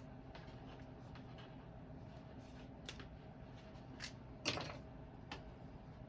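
Hands unbundling a new coil of rubber window gasket held with zip ties: a few light clicks and knocks, the loudest about four and a half seconds in, over a low steady hum.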